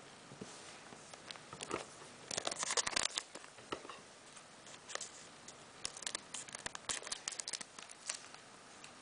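Scissors snipping open a Pokémon card booster pack and the cards being handled, faint clicks and crinkly rustles coming in two busy stretches.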